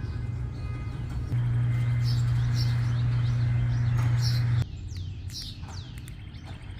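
Birds chirping in quick, falling chirps over a steady low hum; the hum grows louder about a second in and cuts off abruptly a few seconds later.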